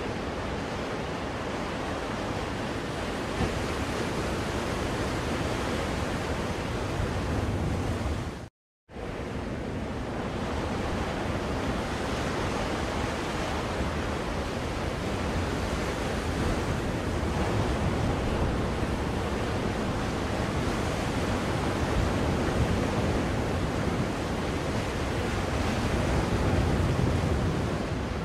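Recorded ocean surf played as a continuous white-noise track: a steady wash of waves that swells gently in level. It cuts out to silence for about half a second about eight seconds in, then resumes, like a loop or splice point.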